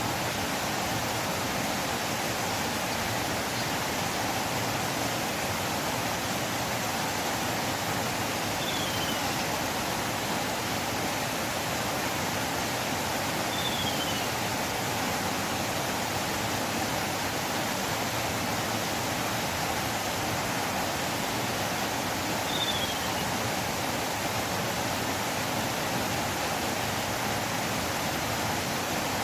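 River water flowing in a steady, even rush. Three short, high, falling chirps come through it, about 9, 14 and 23 seconds in.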